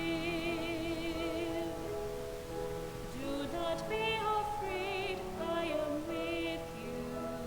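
Sacred music: a solo voice sings with a wide vibrato, first holding one long note, then a few shorter phrases over a sustained accompaniment.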